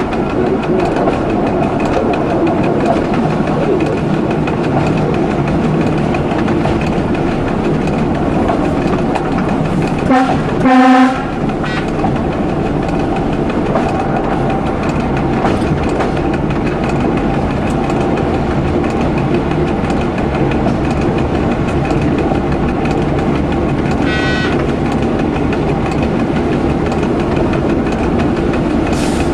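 Local passenger train running along the line, heard from inside the driver's cab: a steady rumble of wheels on rail, with one horn blast of about a second roughly a third of the way in.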